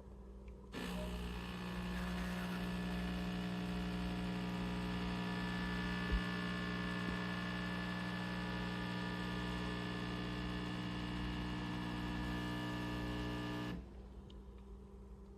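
De'Longhi Magnifica Start espresso machine's vibration pump buzzing steadily as it pumps water. It starts about a second in and cuts off suddenly near the end.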